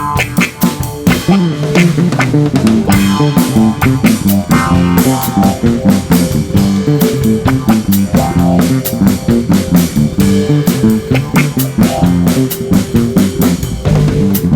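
Rock band playing live: electric guitar, bass guitar and drum kit, with a busy, steady beat.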